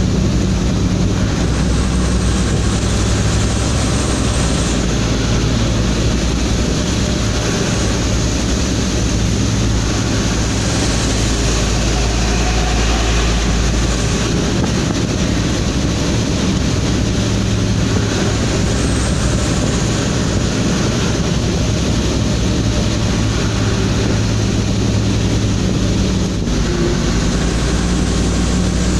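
Cargo truck engine droning steadily under the tyre and heavy rain noise, heard inside the cab on a highway.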